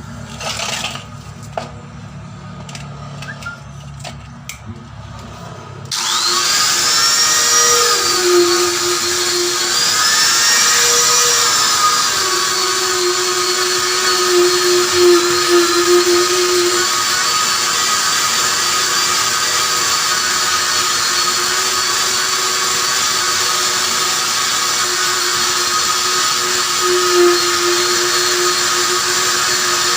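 A high-speed rotary power tool, typical of a tyre buffer, starts suddenly about six seconds in and runs steadily and loudly, its pitch wavering briefly a few times as it works. This is the sound of rubber being buffed for a puncture patch. Before it starts there is a low hum and a few clicks.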